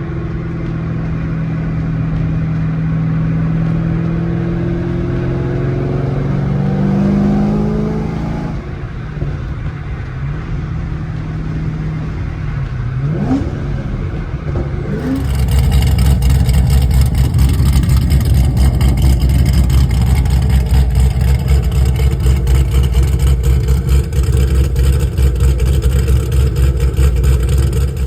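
Whipple-supercharged LS7 V8 of a 2014 Chevrolet Camaro Z/28 running. For the first several seconds its pitch climbs as it accelerates, then it drops back. About halfway through it turns much louder and holds a steady, pulsing note.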